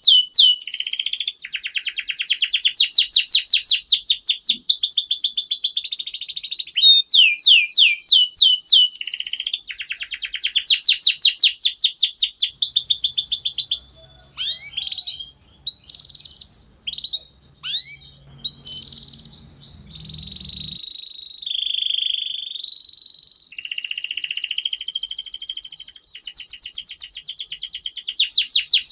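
Canary singing long, rapid trills of quickly repeated high notes. About halfway through, the trills give way to scattered chirps and short whistles, and rapid trilling resumes near the end.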